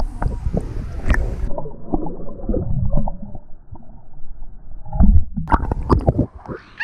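Lazy-river water sloshing and splashing right at a waterproof action camera, with a heavy low rumble and knocks. In the middle the sound goes muffled, the high sounds cut off, and sharp splashes return about five seconds in.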